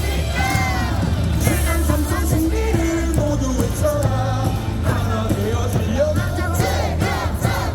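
Baseball cheer song played over the stadium loudspeakers with a steady bass beat, the crowd singing and shouting along.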